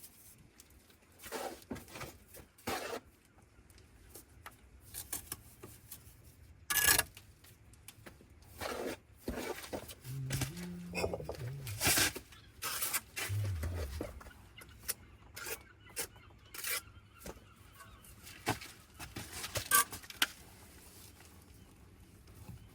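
Bricklayer's trowel working on brick and mortar: irregular sharp taps and knocks with short scraping strokes, as replacement bricks are bedded and tapped into place. The sharpest knocks come about a third of the way in and again near the end.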